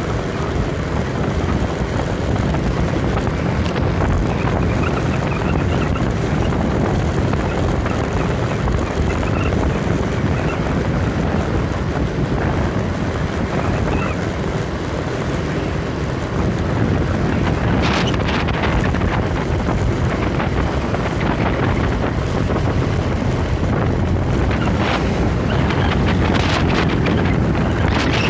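Wind buffeting the microphone: a steady, heavy rumbling noise, with a few short sharp rustles or knocks about two-thirds of the way through and again near the end.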